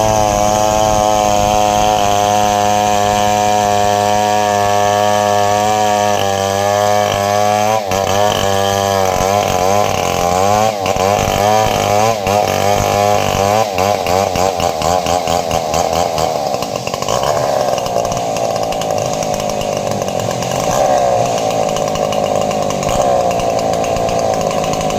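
Two-stroke chainsaw running at high revs, holding a steady pitch for about six seconds. Its pitch then swings up and down repeatedly as the engine loads and unloads while cutting sengon wood, before settling into a rougher, steady run.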